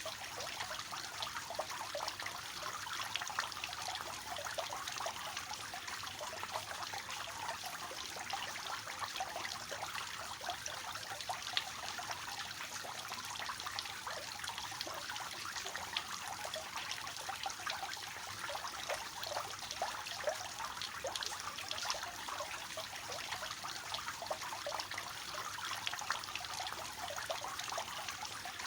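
Water from a three-tiered cascade fountain splashing and trickling steadily, a light, bright patter of many small splashes.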